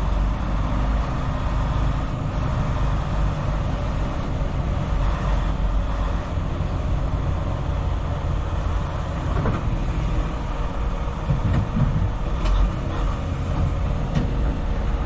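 Semi-truck's diesel engine running steadily, heard from inside the cab.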